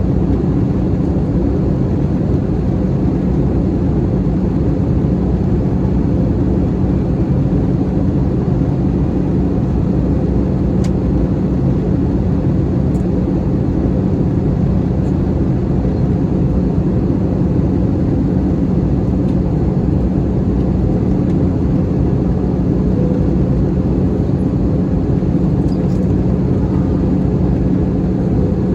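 Steady cabin noise of an Airbus A321-211 in flight: an even rumble and rush of air with a constant hum from its CFM56 engines, unchanging throughout.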